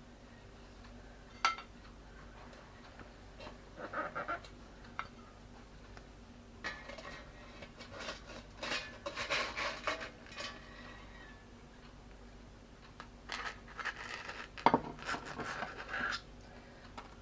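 Utensil and dishware clatter as cooked Kievs are lifted from an air fryer basket onto a plate: scattered clinks and scrapes in several bursts, with sharp knocks about a second and a half in and again near the end.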